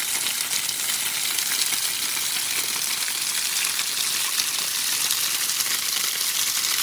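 Waterfall falling onto rocks: a steady, even rushing hiss of water.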